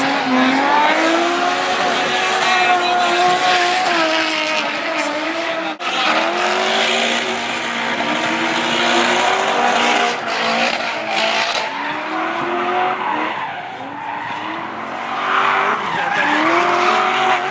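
Drift cars' engines revving up and down hard while their tyres squeal, sliding sideways. The sound breaks off suddenly about six seconds in, then picks straight up again.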